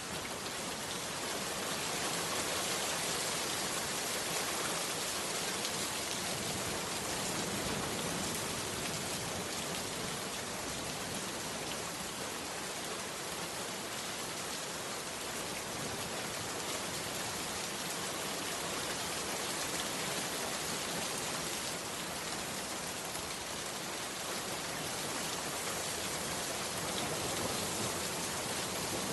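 Heavy rain falling steadily, a dense even hiss of drops on surfaces, swelling in over the first second.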